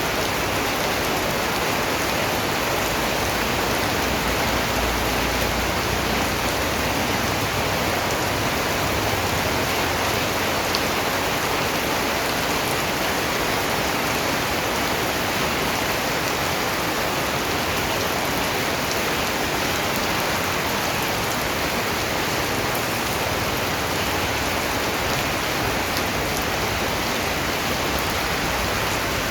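Steady rain falling, an even hiss of rain on a surface with scattered individual raindrops.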